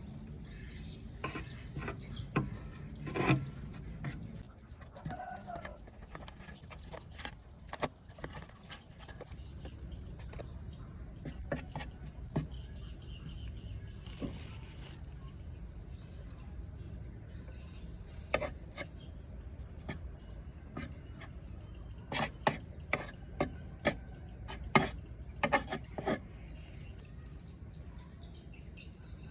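Scattered light clicks and taps of work on a tape player's parts by hand, with a quick run of sharper clicks about three quarters of the way through, over a steady low background noise.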